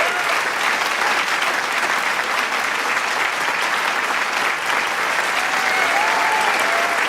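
A large crowd clapping steadily, with a few cheers and whistles rising over the applause near the end.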